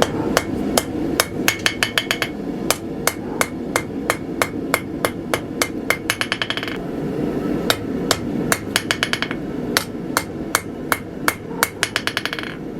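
Hand hammer striking hot mild steel on an anvil, about three ringing blows a second, broken a few times by quick runs of lighter, faster taps, as the steel is forged to isolate and widen material for the tang slot. A steady low rushing noise runs underneath.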